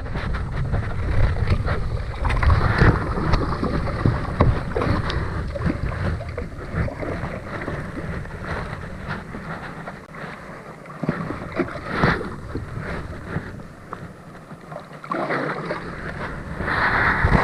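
Wind buffeting the microphone over water around a fishing boat, with scattered knocks and a louder gust or splash near the end.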